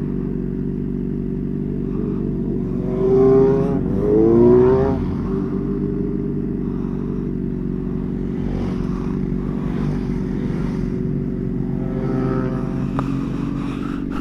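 Motorcycle engine running steadily under way, with two short rises in engine pitch about three and four and a half seconds in.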